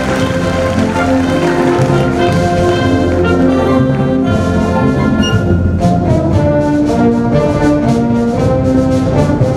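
Band music with brass prominent: sustained chords and a melody, with a steady percussive beat coming in about halfway through.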